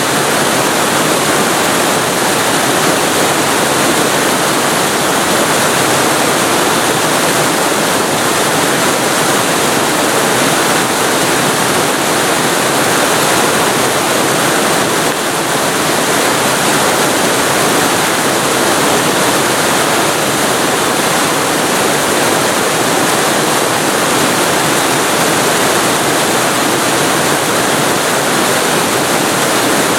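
Waterfall recorded very close to the falling water: a loud, steady, dense rush of noise with no breaks.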